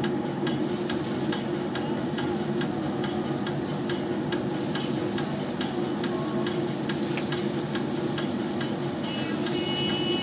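Sticky-rice turon frying in shallow hot oil in a wok: a steady sizzle with many small crackles as the rolls are laid in.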